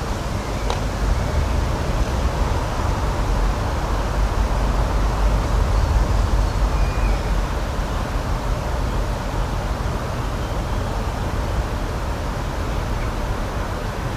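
Steady outdoor rushing ambience, heaviest in the low end and swelling a little in the middle, with a faint short high chirp about seven seconds in.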